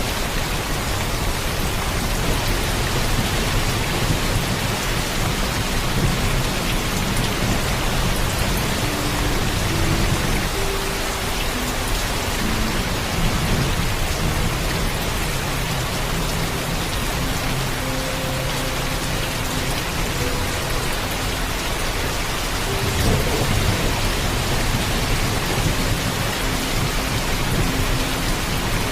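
Heavy, steady rainfall with low thunder rumbling underneath, swelling twice.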